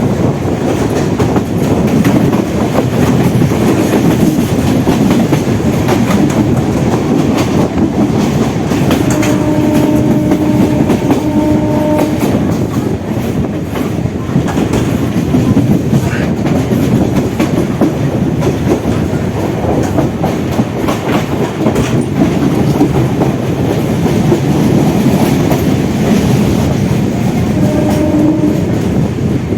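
Suburban electric local train running at speed, heard from on board: steady rumble and clatter of the wheels over the rail joints. A horn sounds for about three seconds around a third of the way in, and again briefly near the end.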